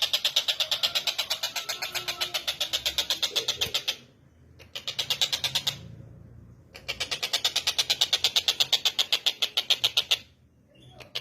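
Tengkek buto bird calling: a fast, even rattle of sharp, high repeated notes, about eight a second, in long runs broken by three short pauses.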